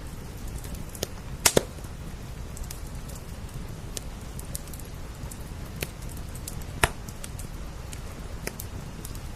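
Wood fire crackling, with scattered sharp pops over a steady low rumble; the loudest is a quick double pop about a second and a half in, and another comes near seven seconds.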